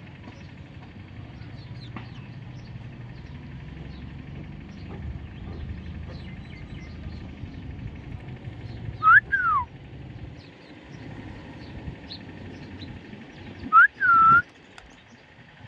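Parrot whistling. About nine seconds in comes a pair of short whistles, one sliding up and one sliding down. Near the end comes a quick rising whistle followed by a held whistle, over faint chirping and a low rumble.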